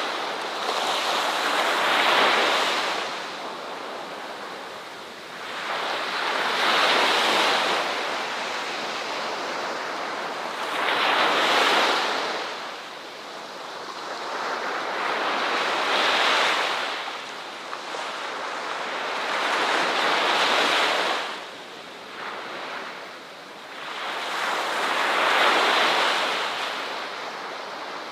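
Ocean surf breaking on a shore, one wave surging in and washing back about every four to five seconds, six in all.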